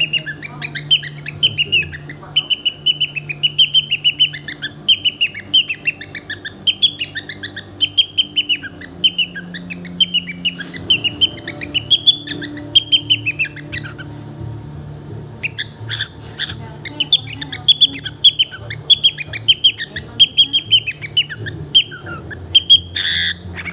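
Cockatiel squeaking in a rapid run of short, high chirps, a few a second, that breaks off briefly about two-thirds of the way through and then resumes, ending with one louder, harsher squawk.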